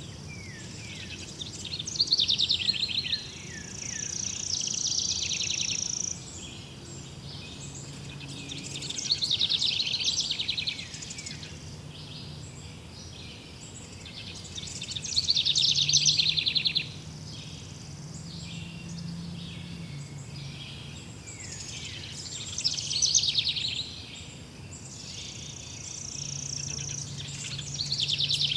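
Birds singing: loud, fast trilled song phrases that come about every six to seven seconds, over a steady low background hum.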